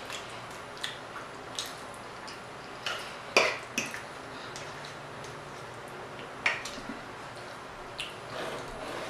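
A person eating close to the microphone: wet chewing and mouth smacks, with scattered short clicks.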